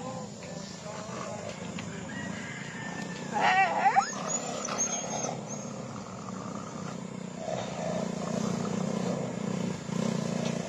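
A dog gives one loud, wavering cry about three and a half seconds in, over a steady low background hum.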